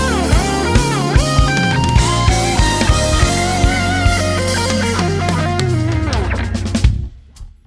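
Instrumental band playing live: drum kit, bass and electric guitar with keyboards, the lead line bending down and back up near the start. About seven seconds in, the whole band stops together on a sudden break.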